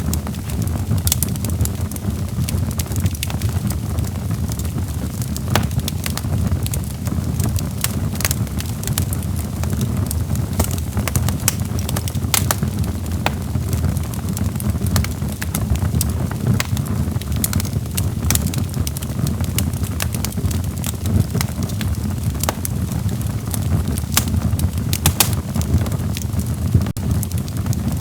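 Log fire crackling, with frequent sharp irregular pops over a steady low rumble of the flames.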